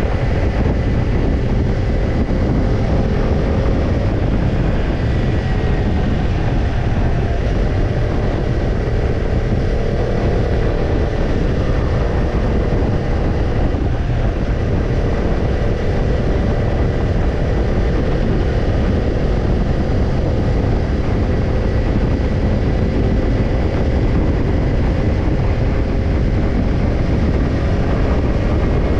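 Kawasaki Ninja 250 parallel-twin engine running through a BEET NASSERT Evolution Type II titanium slip-on muffler at a steady riding speed, its pitch rising and falling only slightly. A heavy low rumble of wind on the microphone lies underneath.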